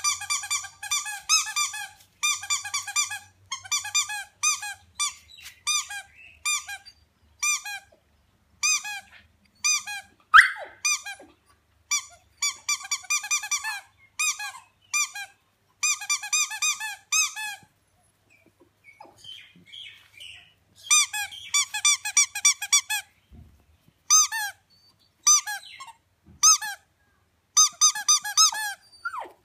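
Squeaky toy squeaked over and over in quick runs of short, high squeaks with brief pauses between runs, and one longer rising squeal about ten seconds in.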